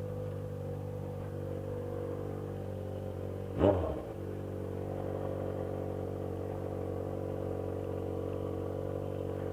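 Yamaha XJ6 motorcycle's inline-four engine idling steadily, with one quick throttle blip about three and a half seconds in that is the loudest moment.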